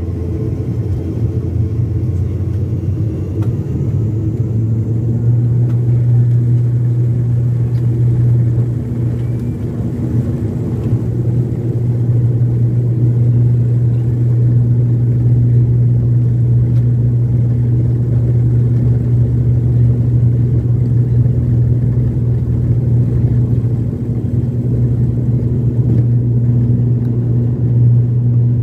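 Twin turboprop engines and propellers of an ATR 72 at takeoff power: a loud, steady low drone with a strong hum that grows louder about four seconds in and then holds.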